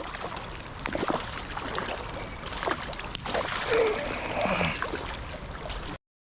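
Water trickling and splashing, with many small irregular clicks and splashes. It cuts off abruptly about six seconds in.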